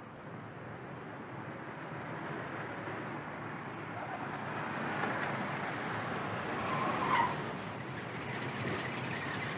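Car driving hard, its engine and tyre noise building steadily, with a short tyre squeal about seven seconds in.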